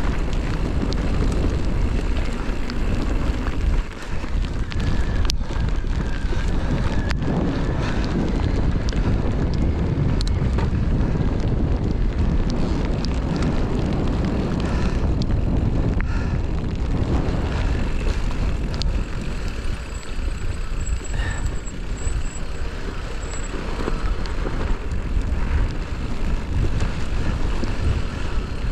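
Wind buffeting a GoPro microphone while riding a mountain bike, over a low rumble of tyres on rough trail, with scattered short knocks and rattles from the bike.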